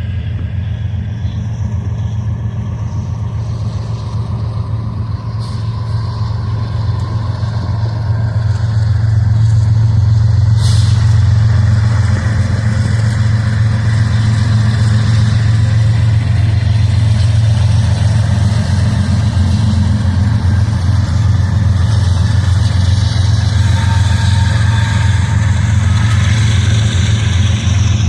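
Diesel locomotive engine running with a heavy, steady low drone that grows louder about eight seconds in, with a brief sharp hiss about ten seconds in.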